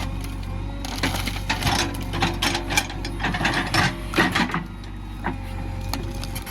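JCB 3DX backhoe loader's diesel engine running steadily, with a run of rattling, scraping clatter of loose material and the bucket from about a second in until past the middle, then a single knock.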